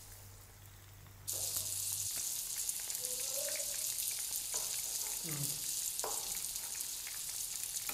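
Marinated chicken skewers sizzling in shallow oil in a frying pan over a low flame: a steady hiss with faint crackles that jumps louder about a second in.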